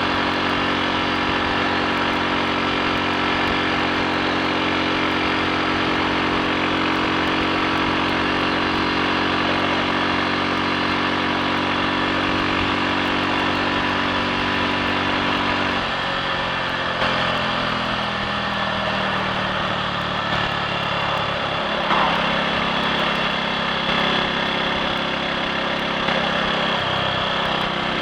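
Triumph Sports Cub's single-cylinder four-stroke engine running steadily under way, with no misfire or cutting out after the fuel tank was cleaned of rust. About sixteen seconds in its note drops, then rises and falls a little.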